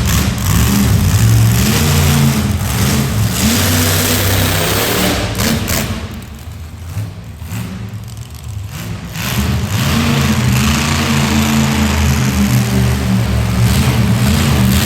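Monster truck engine revving hard, easing off for a few seconds about six seconds in, then revving up loud again.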